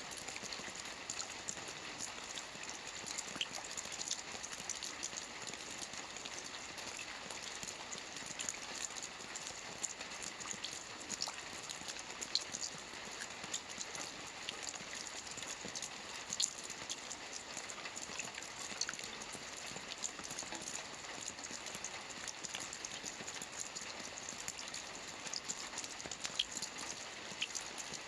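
Steady rain, a dense patter of drops with scattered sharper individual drop ticks.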